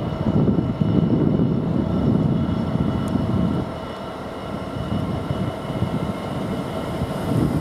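LNER Azuma (Hitachi Class 800-series) train pulling slowly into a station platform: a steady hum with several held tones over a low, uneven rumble.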